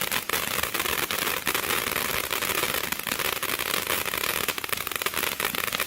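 Spirit of Freedom firework fountain in its finale, with dense, rapid crackling over a steady hiss of burning composition.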